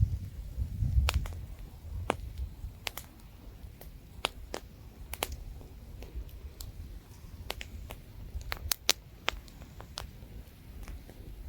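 Campfire crackling, with irregular sharp pops and snaps, a quick cluster of them about three-quarters of the way through. A low rumble of light wind runs beneath, gusting more strongly at the start.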